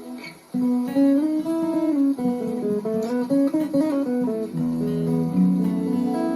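Solo acoustic guitar playing a song intro: a ringing chord stops about half a second in, then a picked single-note melody, with low bass notes joining under held notes past the middle.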